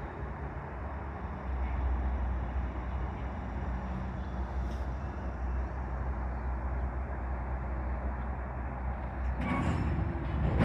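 CSX freight train rolling slowly past, a steady low rumble that swells about a second and a half in. It grows louder and noisier near the end.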